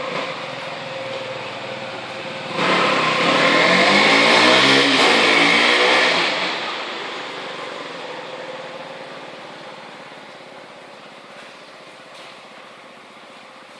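KTM 125 Duke's single-cylinder four-stroke engine on its stock exhaust, running steadily, then revved hard about two and a half seconds in for some four seconds, its pitch swinging up and down, before dropping back and slowly fading away, inside a garage.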